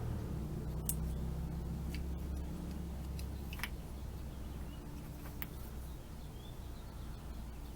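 Several light clicks and ticks of small parts being handled, over a low steady hum that weakens about three seconds in.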